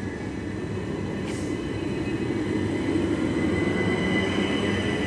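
Class 377 Electrostar electric multiple unit approaching, a rumble that grows slowly louder, with a steady high whine coming in about three seconds in.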